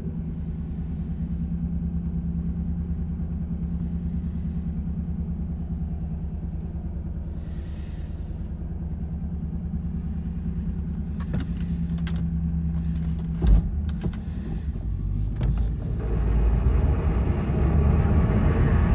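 A 1995 Lexus LS 400's 4.0-litre V8 idling steadily, settling down from a rev; a single thump about thirteen seconds in, and the engine picks up again near the end.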